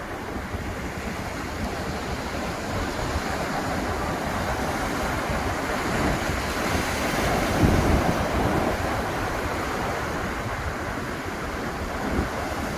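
Ocean surf breaking and washing onto the beach, swelling to its loudest a little past the middle and then easing. Wind rumbles against the microphone underneath.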